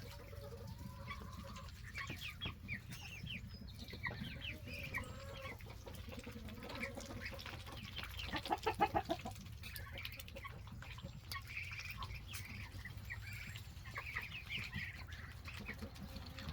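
Flock of four-week-old meat chickens and Muscovy ducklings peeping and clucking, with one louder call of several quick notes about eight seconds in.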